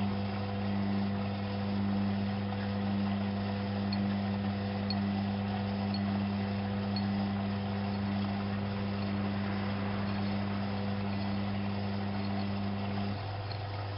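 Alaska WA8200 E washing machine running: a steady low hum with a stronger, higher hum over it that cuts off about a second before the end, and a faint pulse about once a second.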